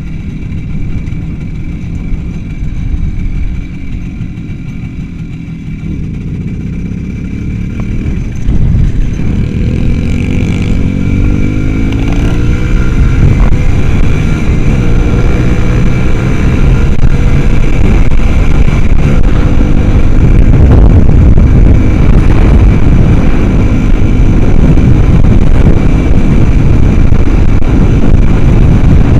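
Motorcycle engine running under way, rising in pitch as it accelerates from about eight seconds in, then holding steady and loud.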